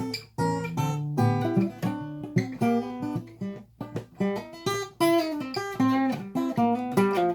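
Acoustic guitar playing an instrumental break: a quick run of plucked notes and strummed chords over low bass notes.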